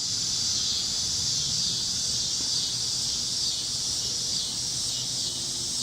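A chorus of cicadas screaming in a steady, high-pitched drone.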